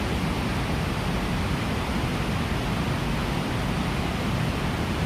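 Steady rushing of the Snake River's water over the falls.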